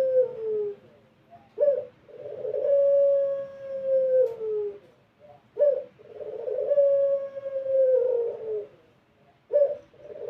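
Puter pelung, a long-voiced ringneck (Barbary) dove, cooing in repeated phrases: a short, sharp note, then a long drawn-out coo that holds one pitch and slides down at its end, about every four seconds.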